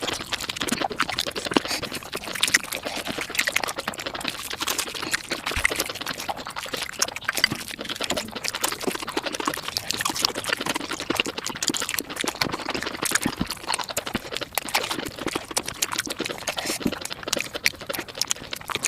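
Mukbang eating sounds sped up five times: a dense, unbroken stream of rapid wet chewing and mouth clicks.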